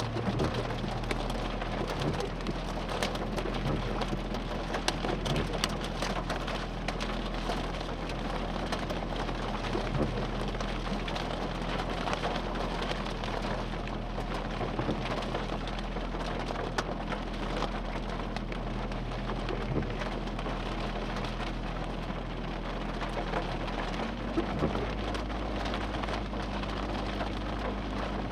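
Small hail, about half an inch across, falling with rain: a dense patter of sharp ticks over a steady hiss, with a steady low hum underneath.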